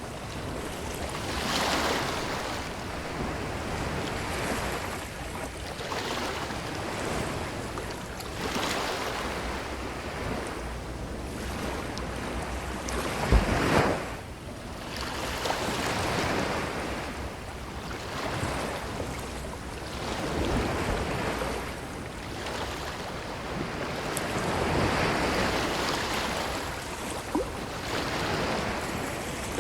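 Ocean waves breaking and washing up a beach in repeated surges every two to three seconds. About halfway through comes one louder, sharper crash with a deep thump.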